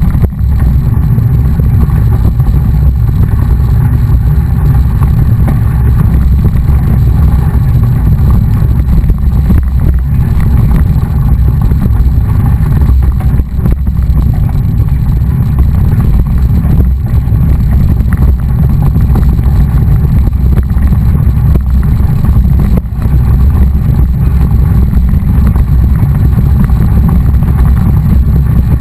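Wind buffeting a moving camera's microphone: a loud, steady, low rumble without a break.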